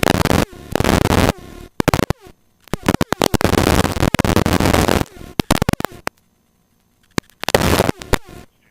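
Helicopter cabin noise heard through the headset intercom: loud rushing noise cuts in and out abruptly in three or four bursts, with dead silence between, as the intercom's noise gate opens and shuts.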